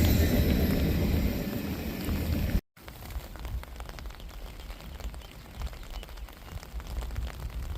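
A passing freight train's low rumble fades away and cuts off abruptly about two and a half seconds in. After that comes a quieter steady crackling hiss with many small clicks.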